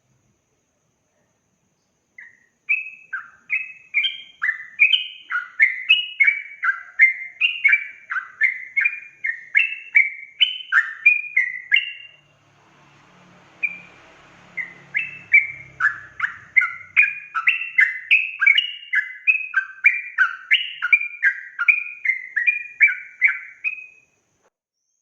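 Yellow-vented bulbul (trucukan) singing a fast 'ropel' run of short, bright, bubbling notes, about two to three a second, broken by a pause of a few seconds in the middle before a second run.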